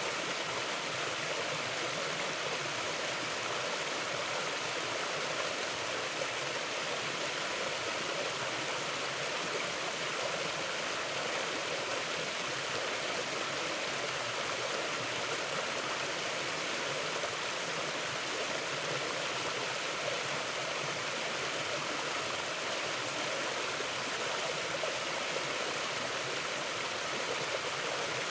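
A river flowing over rocks: steady rushing and babbling water with no breaks.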